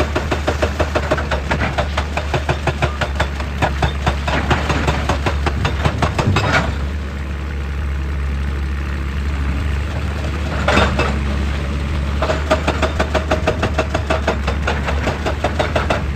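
Heavy excavator's diesel engine running with a fast, repeated knocking. The knocking stops about six seconds in and starts again after a few seconds, while the engine carries on.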